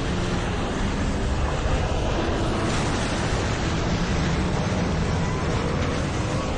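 Tornado-strength wind blowing steadily, a dense rush of noise with a deep low rumble underneath.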